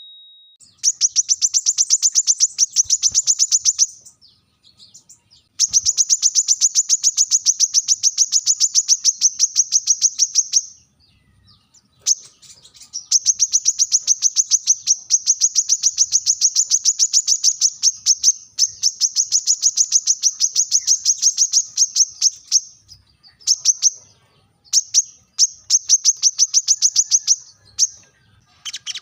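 Brown-throated sunbird (kolibri kelapa) giving its sharp challenge call toward a rival: a fast series of high, sharp notes repeated in long bursts of a few seconds each, with brief pauses between.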